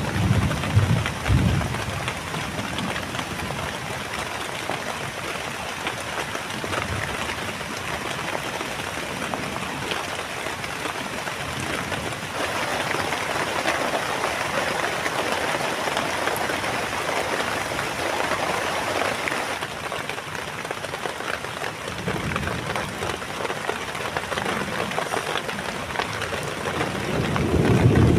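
Heavy rain pouring steadily, with low rumbling in the first couple of seconds and again building near the end.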